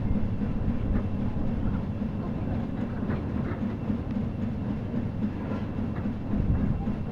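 Steam boat's two vertical three-cylinder compound steam engines running under way: a steady low mechanical noise with a fast, even beat.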